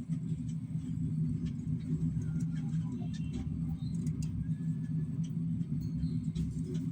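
A steady low mechanical hum, with faint, scattered high chirps and squeaks from small parrots.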